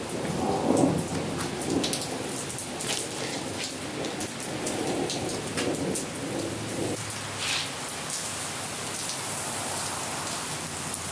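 Steady rain falling on a wet concrete patio, with a low rumble of thunder that rolls on and dies away about seven seconds in. A few light clicks come from metal kebab skewers being set on the grill grate.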